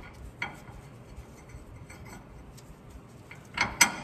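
Light metallic ticks and clinks of bolts, washers and a wrench being handled while fitting the driveshaft carrier bearing's mounting bolts, with a quick cluster of sharper clinks near the end.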